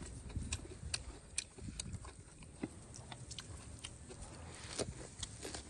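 Crunchy chewing of a mouthful of shredded green papaya salad: a run of sharp, irregular crunches and clicks over a low rumble.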